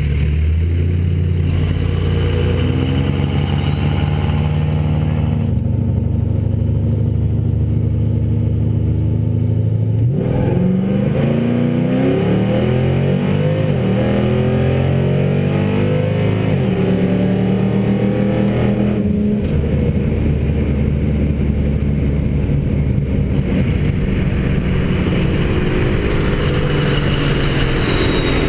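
Engines of a 1200 hp street-race truck and its rival, running steadily at first, then revving hard about ten seconds in, with several engine pitches rising and falling over each other for several seconds before settling into a steadier drone.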